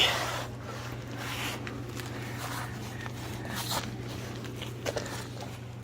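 Footsteps and scuffing handling noises, several short irregular ones, over a steady low hum.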